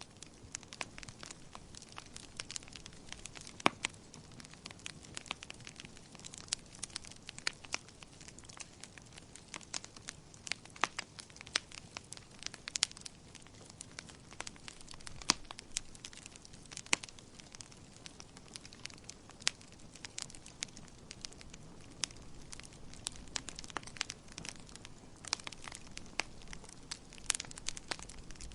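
Wood fire crackling in a fireplace: a steady run of irregular sharp pops and snaps over a soft low hiss.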